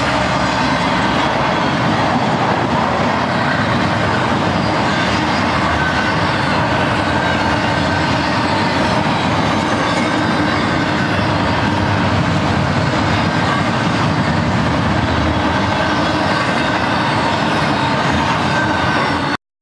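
BNSF double-stack intermodal freight train rolling past: a steady, loud noise of the container and trailer cars' steel wheels running on the rails. It cuts off suddenly near the end.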